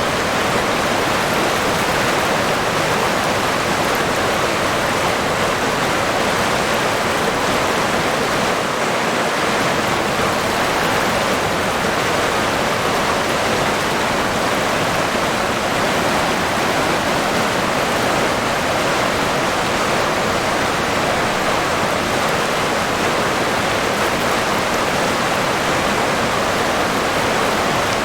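River water rushing and splashing.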